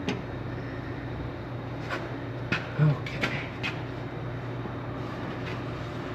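Scattered light metallic clicks and taps as the parts of a split-apart hydraulic control valve are handled, over a steady low hum.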